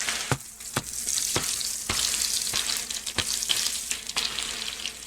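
Chicken pieces frying in olive oil in a hot pan, a steady sizzle, with about five sharp knocks in the first three seconds or so.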